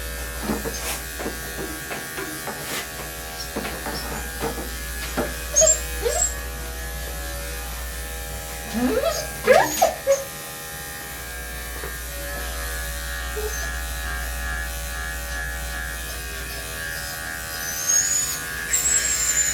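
Electric dog-grooming clippers running steadily, with a few short high whining sounds over the top, about nine to ten seconds in and again near the end.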